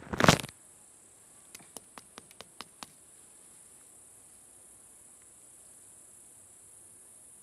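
Insects chirring steadily in a high, thin band. A loud half-second rush of noise opens it, followed about a second and a half in by a quick run of about seven sharp clicks.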